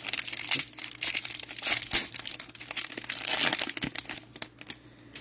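Plastic wrapper of a cello pack of football trading cards crinkling and rustling as it is torn open and handled, dying away near the end.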